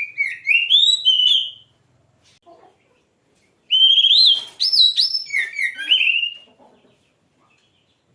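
Oriental magpie-robin (kacer) singing loud, rapid whistled phrases with notes sweeping up and down. One short phrase comes at the start and a longer one about halfway through.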